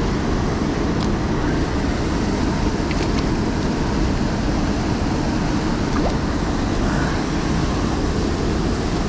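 Fast-flowing river water rushing steadily, an even, unbroken noise.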